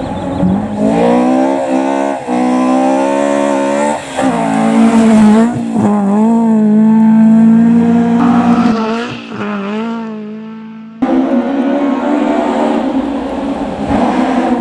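Rally car engine at high revs, heard approaching on a gravel stage. It climbs through the gears with pitch drops about two and four seconds in, then holds high and wavers as the driver comes off the throttle. About eleven seconds in the sound cuts abruptly to another rally car engine running hard.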